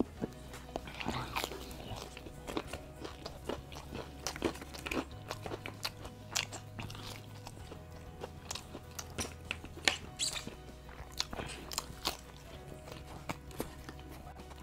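Crisp fried chicken being bitten and chewed close to the microphone: irregular crunches and mouth sounds, over quiet background music with a steady bass line.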